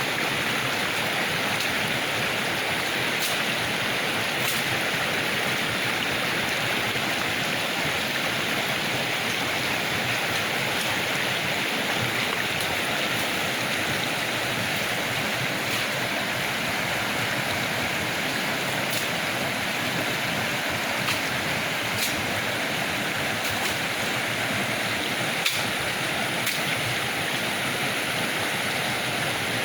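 Clear river water rushing and gurgling over rocks, a steady, unbroken rush.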